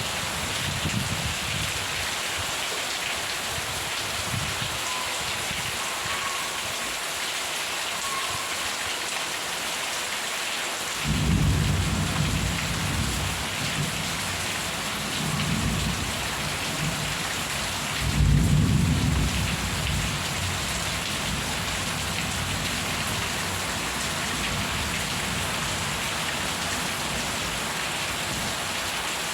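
Steady rain falling, with rolls of thunder. The first rumble starts suddenly about a third of the way in, another swells shortly after, and the loudest comes a little past the middle, then dies back under the rain.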